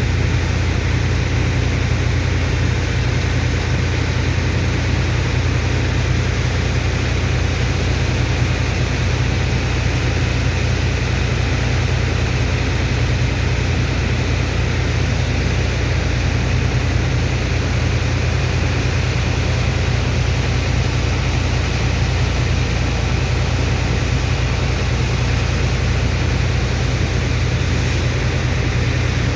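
Sand dredger's engine and water pump running steadily under load: a deep, constant low drone with an even rushing noise over it.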